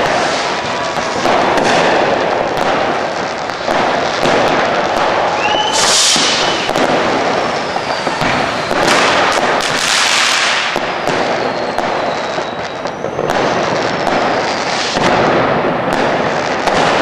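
Fireworks and firecrackers going off without a break, a dense crackle of overlapping bangs, with several falling whistles and one short rising whistle about six seconds in.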